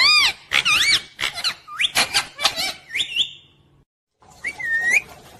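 Pet parrot chirping: a quick run of short, squeaky, arching calls, then a brief break and one more drawn-out call.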